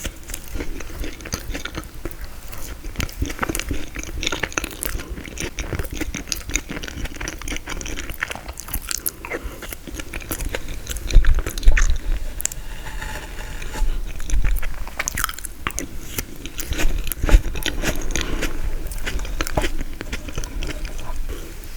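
Close-miked chewing and crunching of frozen tiramisu: a dense run of small crackles and smacks, with a few louder knocks about halfway through.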